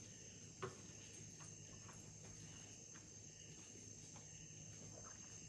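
Near silence: quiet, close-mouthed chewing of spicy noodles with faint soft mouth clicks and one sharper click about half a second in, over a steady faint high-pitched whine.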